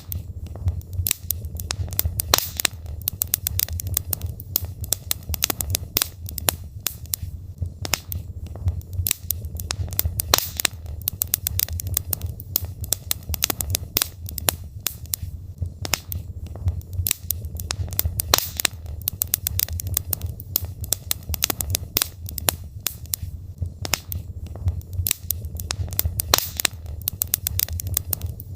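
Wood fire crackling: logs burning in a fireplace, with dense, irregular pops and snaps over a steady low rumble.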